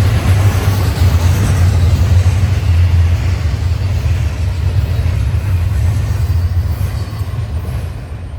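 Union Pacific intermodal freight train rolling past, a loud, steady low rumble of wheels on the rails that eases off slightly near the end.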